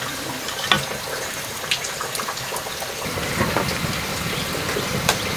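Running water, pouring steadily, with a few light clicks and knocks over it.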